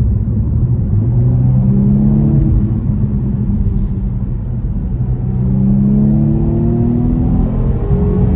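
The 2021 BMW M135i's 2-litre turbocharged four-cylinder engine accelerating, heard from inside the cabin over a steady low rumble. The engine note climbs twice, from about a second in and again from about five seconds in, each time falling back afterwards.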